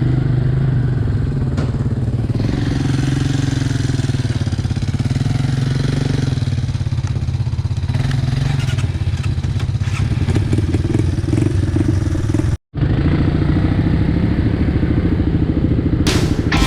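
ATV engine running as the quad rides the trail, its pitch rising and falling with the throttle. The sound cuts out abruptly for a moment about two-thirds of the way through, then the engine carries on. Music comes in at the very end.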